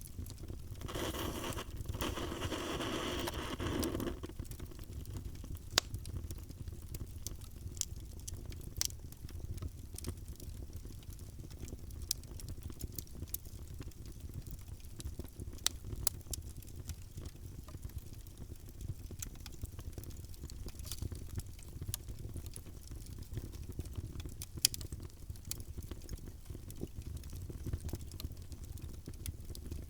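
Wood fire in a fireplace crackling, with scattered sharp pops and snaps over a steady low rumble of the flames. About a second in, a hissing rush lasts for about three seconds.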